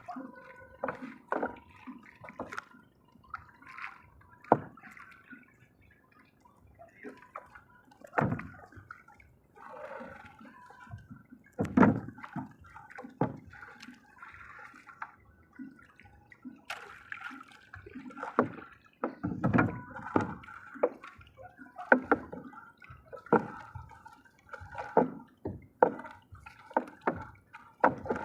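Water splashing and dripping in irregular bursts, some splashes sharper and louder than others.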